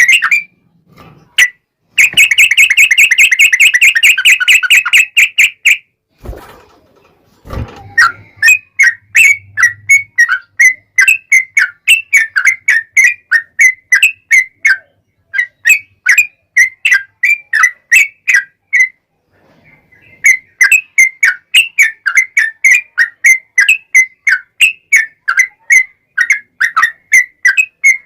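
Yellow-vented bulbul (trucukan) singing: a fast, continuous trill for a few seconds, then after two low thumps a long run of short, repeated chirping notes at about three a second, pausing briefly about two-thirds of the way through.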